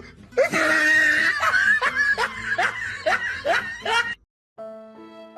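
A person laughing hard: a loud first burst, then a quick run of short, sharp giggling bursts, about three a second, cut off about four seconds in. Soft instrumental music with sustained tones begins near the end.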